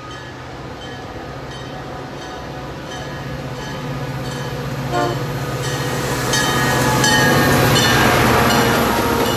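Metra F40PH diesel locomotive approaching and passing at speed, its engine and wheels growing steadily louder to a rush as it goes by. A bell rings about twice a second throughout, and a short horn note sounds about five seconds in.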